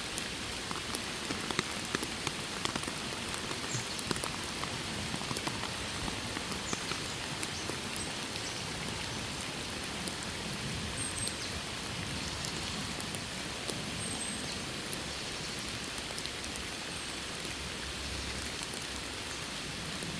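Steady rain falling, with many separate drops ticking onto surfaces.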